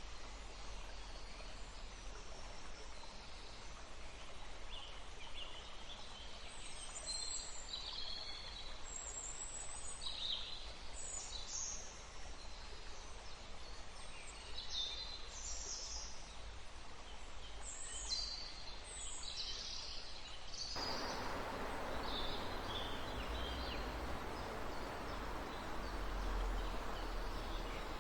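Forest birds chirping and calling in many short, high notes over a low rumble. About 21 seconds in the sound changes abruptly to the steady rush of a running river, with the birds fainter behind it.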